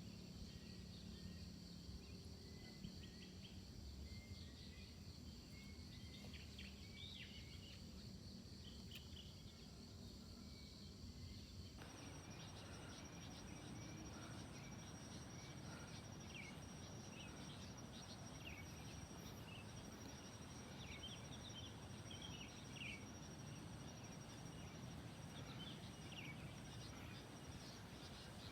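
Faint outdoor nature ambience: steady insect droning with scattered short bird chirps over a low rumble. The background changes abruptly about twelve seconds in.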